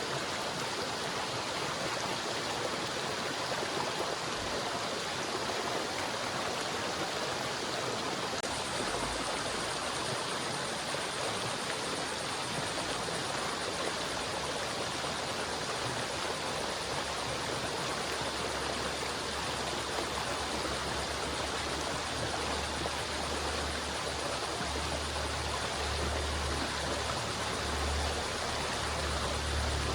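River water flowing steadily in a continuous rush. A low rumble comes in about halfway and grows toward the end.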